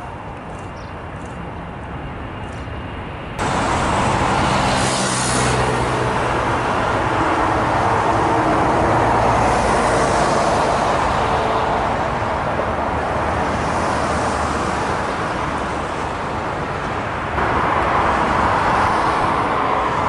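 Jet engines of heavy widebody airliners at take-off thrust: a loud, steady rushing noise with a few steady engine tones running through it. It jumps suddenly louder about three seconds in and again near the end.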